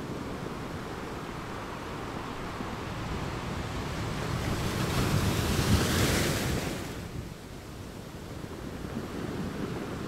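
Ocean surf: waves breaking on the shore as a steady wash. One wave swells to a loud crash about six seconds in, then drops away quickly into a quieter wash.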